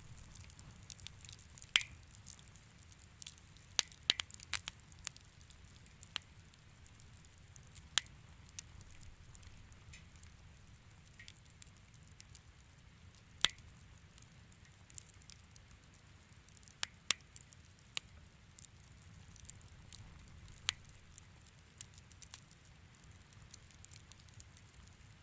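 Wood fire crackling in a fireplace: irregular sharp pops and snaps, a few louder ones spaced several seconds apart, over a faint low rumble of the flames.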